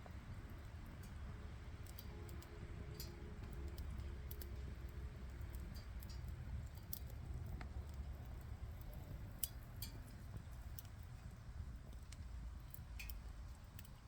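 Wood campfire crackling, with scattered sharp pops and ticks over a steady low rumble.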